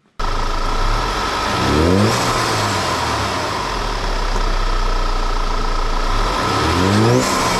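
Audi A4's turbocharged engine running with an aftermarket Integrated Engineering cold air intake, its intake noise plain. It is revved briefly twice, about two seconds in and again near the end.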